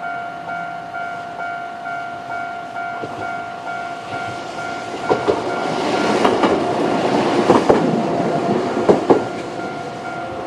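Japanese level-crossing warning bell ringing in a steady, evenly repeating electronic ding. From about five to nine seconds in, a KiHa 3710 diesel railcar rolls over the crossing, with a rising rumble and several sharp wheel clicks over the rail joints.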